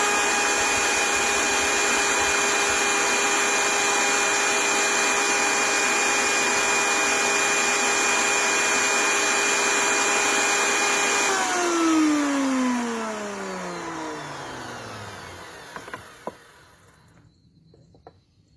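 Electric power tool's motor running steadily with a whine, switched off about eleven seconds in and spinning down with falling pitch over several seconds. A few light clicks near the end.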